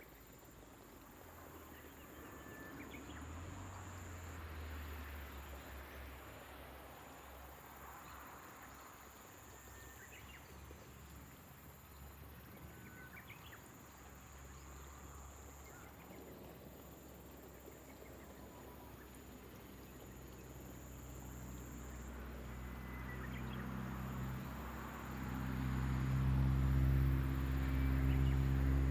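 Rural field ambience: a steady high-pitched insect drone with scattered short bird chirps. A low hum swells over the last several seconds and becomes the loudest sound.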